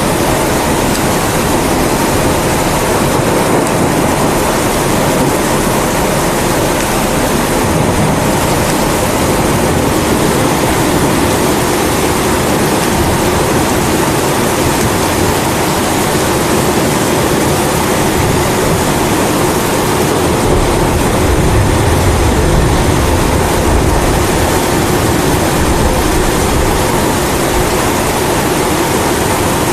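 Kerosene pressure stove (primus) burner running with a steady roar, mixed with steady rain. A low rumble of thunder swells about two-thirds of the way through.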